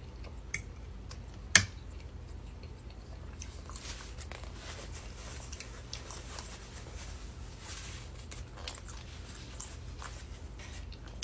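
A person chewing and biting food close to the microphone, with soft wet clicks and smacks and one sharp click about one and a half seconds in, over a steady low hum.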